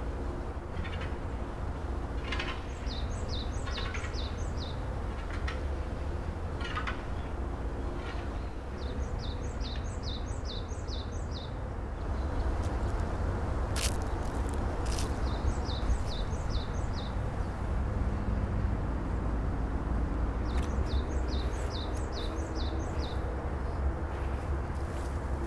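A songbird singing a short phrase of quick, high, falling notes three times, with scattered short chirps between, over a steady low outdoor rumble that grows louder about halfway through.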